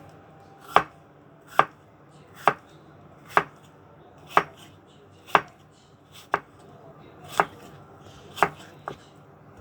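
Kitchen knife slicing a cucumber on a cutting board into thin slices: a sharp knock at each stroke, about one a second, ten strokes in all, the last two close together near the end.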